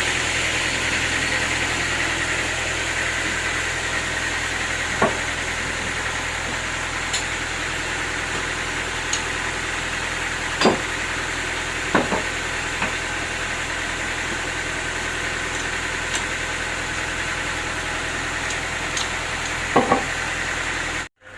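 Sawmill machinery running steadily, with a few sharp knocks and clanks. The sound cuts off suddenly near the end.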